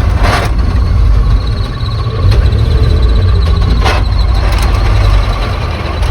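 Old three-ton grain truck's engine running steadily with a strong low rumble, and two brief noisy bursts about a quarter second and four seconds in.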